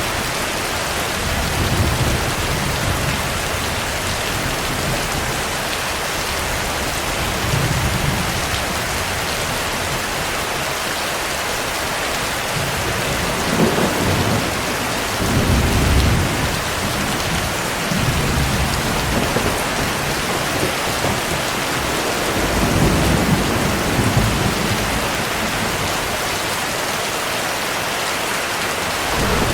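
Steady heavy rain with low thunder rumbling in several times, the strongest about halfway through.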